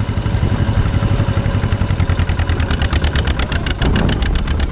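Small farm tractor's engine running in fourth gear and picking up speed, with a rapid, evenly spaced pulsing of the exhaust that comes through more strongly from about two seconds in.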